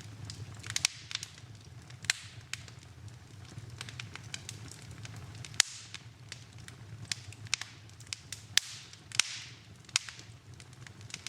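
Wood fire burning in a fireplace: irregular sharp pops and crackles over a steady low rumble of the flames, with a brief hiss about nine seconds in.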